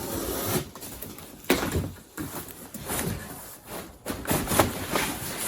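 Handling noises as a sheet-metal body panel and parts are picked up and moved about: irregular knocks, scrapes and rustling, with a sharp knock about a second and a half in and another near the end.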